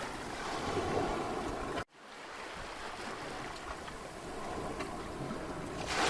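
Mediterranean sea surf washing onto a beach, a steady rush of waves. About two seconds in the sound cuts out abruptly for an instant, then the surf comes back quieter and swells up again, loudest near the end.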